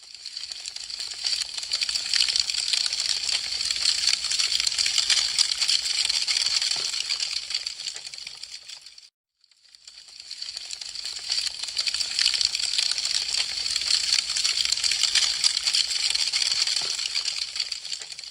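Wood fire crackling: a dense, steady spatter of small sharp crackles and pops. It fades out to silence about halfway through and swells back up in the same pattern, fading out again near the end.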